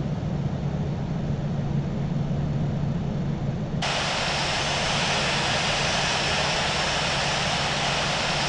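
Boeing 737 jet engine and cabin noise after touchdown: a steady low hum and rumble. About four seconds in, a sudden, louder, even rushing hiss sets in and holds.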